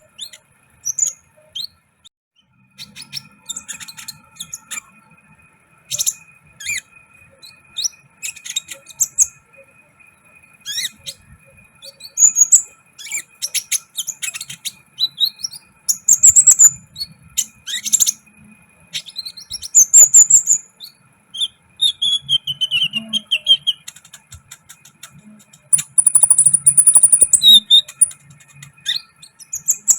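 Sunbird (Indonesian 'kolibri ninja') chirping: many short, high chirps and brief trills at irregular intervals, with a few sharp clicks among them.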